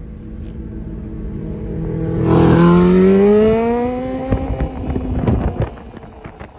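A vehicle engine running low, then accelerating about two seconds in, its pitch rising steadily for a couple of seconds before the sound fades away. A few sharp knocks follow near the end.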